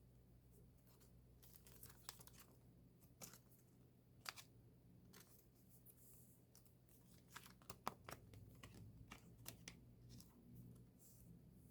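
Quiet rustling, crinkling and small clicks of an album's plastic wrap and paper packaging being handled and torn during unboxing, in scattered short bursts with the loudest clicks about eight seconds in.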